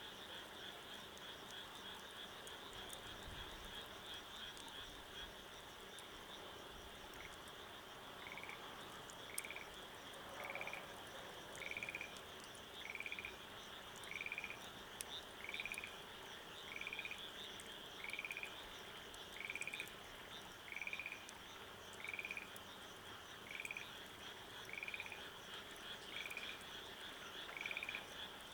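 A frog calling over and over from about seven seconds in: a short, pulsed croak repeated evenly, roughly three calls every four seconds, over a steady high-pitched chorus of night calls.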